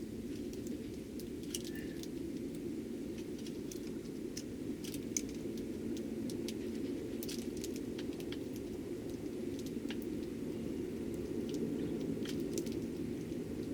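Eurasian tree sparrows feeding: many small, irregular ticks and pattering of beaks and feet, with a brief faint chirp about two seconds in, over a steady low hum.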